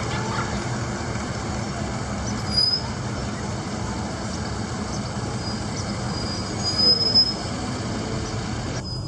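Cars passing with engines running, a steady mix of engine and traffic noise, with two short high-pitched squeals about two and a half and seven seconds in.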